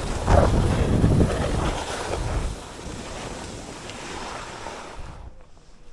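Wind buffeting the microphone of a camera worn while skiing, with skis hissing and scraping over snow, in several surges. It drops away after about two and a half seconds and fades almost out near the end.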